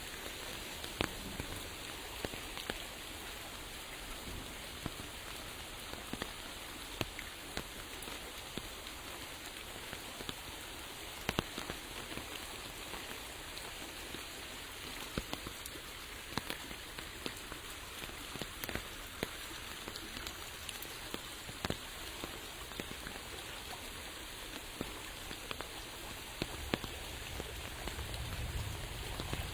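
Steady rain falling, a dense patter with sharp, single drop ticks scattered all through it; a low rumble builds near the end.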